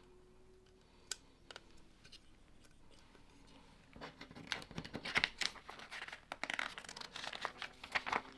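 Lego set being built: a few small plastic clicks, then from about four seconds in a dense crinkling and rustling like a plastic parts bag being handled or torn open.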